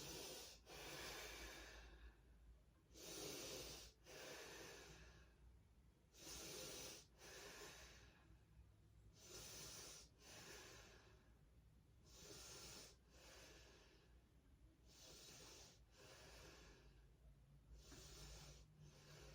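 A person breathing slowly and deeply while holding a forward fold, each inhale and exhale a soft hiss of about a second, about one full breath every three seconds. Faint.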